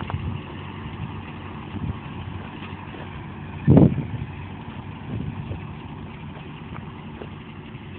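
Ford 8N tractor's four-cylinder flathead engine running at a steady idle, with one brief louder thump a little under four seconds in.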